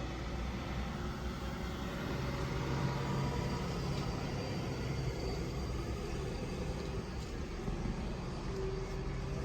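Fire truck engine running steadily: a low rumble, with a humming note that comes up about two seconds in and fades after about five.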